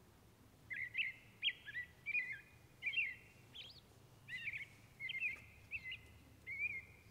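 A bird chirping: a string of short, high chirps, about two a second, starting about a second in, over a faint steady low background.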